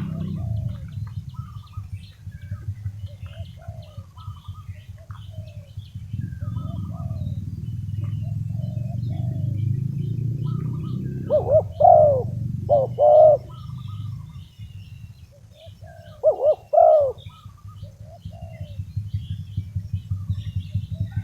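Spotted dove cooing: two loud runs of coo notes, one about 11 seconds in and another about 16 seconds in, with fainter dove coos and small-bird chirps around them. A steady low rumble runs underneath.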